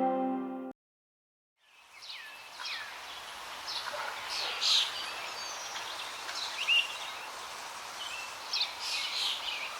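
Birds chirping and calling in a natural ambience over a steady background hiss, with many short whistles that fall in pitch. The birds come in after ambient music cuts off and about a second of silence.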